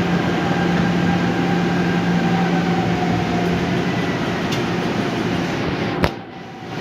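Seoul Subway Line 5 train running, a steady rumble of wheels on rail with a steady low hum and a fainter higher tone from the drive. About six seconds in there is a sharp click, and the sound drops away abruptly for a moment.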